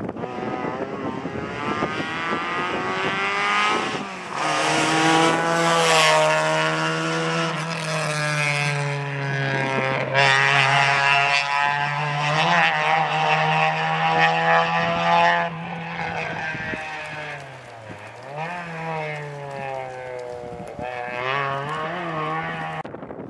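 Rally car engine held at high revs through a stage, with several gear changes and brief lift-offs that step the pitch up and down. It fades somewhat in its last part as the car draws away.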